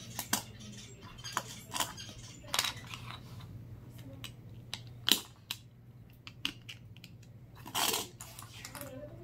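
Small plastic Lego bricks clicking and clattering as they are handled and pressed together, in irregular single clicks. The loudest click comes about five seconds in, and a short rustle follows near the end.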